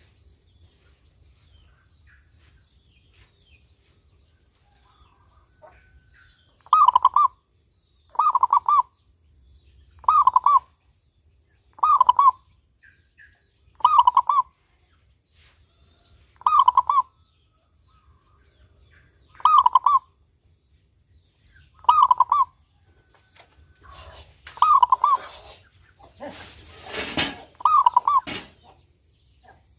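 Perkutut (zebra dove) calling a short pitched note over and over, about ten times, one every two seconds or so, starting some six seconds in. A brief rushing noise near the end.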